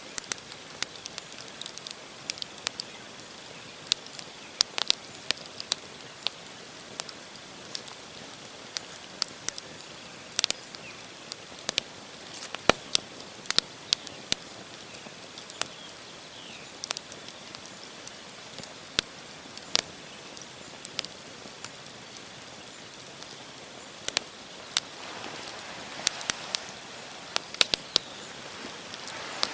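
Campfire logs burning and crackling: irregular sharp pops and snaps over a steady hiss of the flames, the hiss swelling a little near the end.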